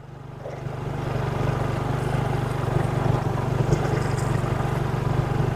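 Motorcycle engine running steadily under way, with wind and road noise. It grows louder over the first second or so, then holds.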